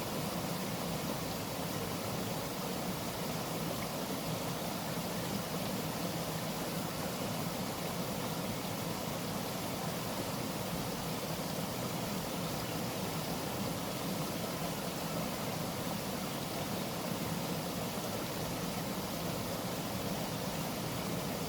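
Waterfall's water rushing in a steady, even roar of noise.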